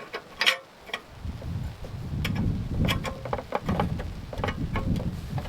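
Wind buffeting the microphone as a rough low rumble that builds about a second in. Scattered small metallic clicks and taps come through, from parts of a petrol-burning iron stove being handled.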